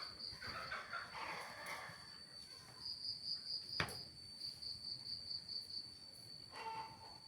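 Cricket chirring steadily, a high-pitched pulsing trill, with a few brief lower calls in the first two seconds and again near the end, and one sharp click about four seconds in.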